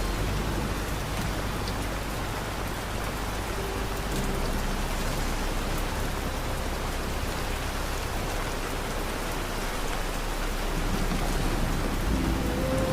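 Steady rain falling, an even hiss of drops with no break. Faint held notes of soft background music come in near the end.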